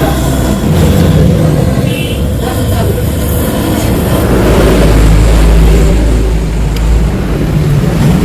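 Yamaha RX-King's two-stroke single-cylinder motorcycle engine running loudly through its exhaust, growing louder for a couple of seconds around the middle.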